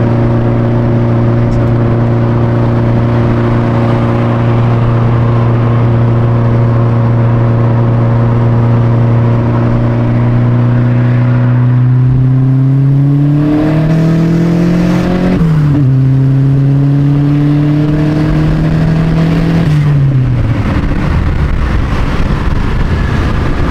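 Car engine running at a steady pitch, then pulling hard under acceleration: the revs climb, drop sharply at an upshift, climb again, and fall away as the throttle is lifted near the end.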